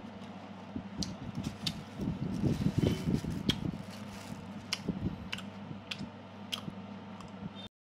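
Close-up mouth sounds of a person eating and drinking: irregular wet clicks and smacks, with a louder cluster of low chewing and swallowing noises a couple of seconds in, over a steady low hum. The sound cuts off suddenly near the end.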